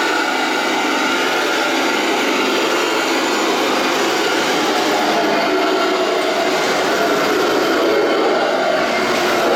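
Radio-controlled KV-1 battle tank model running: a steady, loud mechanical grinding of its drive motors, gearboxes and tracks.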